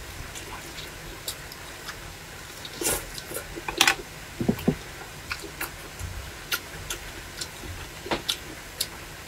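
Close-up eating sounds: chewing of fried skewered food, with short, irregular mouth clicks throughout and a louder cluster about three to four seconds in and again around eight seconds in.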